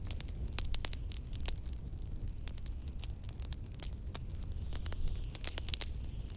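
Wood fire crackling, with irregular sharp pops and snaps, over a steady low rumble of wind.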